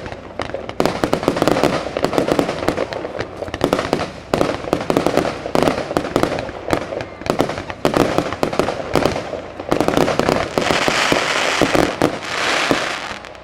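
Fireworks going off in a dense run of rapid crackling pops, with a stretch of hissing near the end.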